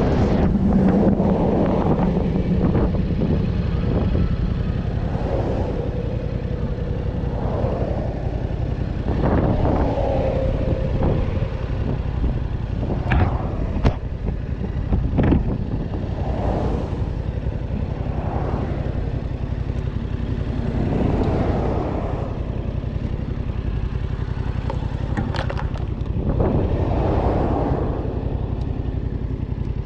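A motor vehicle's engine and road noise at steady speed, with wind buffeting the microphone and a few brief clatters.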